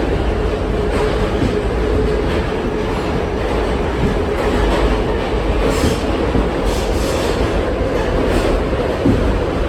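An R68 subway car running along the track: a steady rumble of wheels on rail under a constant motor hum, with a few faint clicks or squeaks in the second half.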